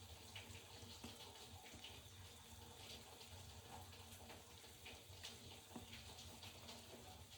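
Top-loading washing machine running faintly: a low steady hum under soft water swishing and small splashes in the drum.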